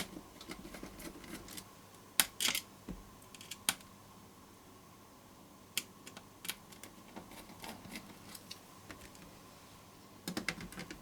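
Scattered light clicks and taps of a plastic ZX Spectrum Plus case and its parts and screws being handled while a circuit board is fitted into it: a few sharp single clicks, then a short cluster of taps near the end.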